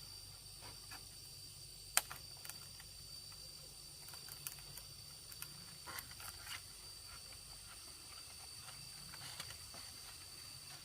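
Faint steady high-pitched trilling of insects, with scattered light clicks and taps and one sharper knock about two seconds in.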